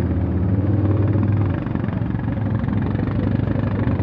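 Motor vehicle engine running steadily with a low drone, heard from on board. The drone drops a little about one and a half seconds in.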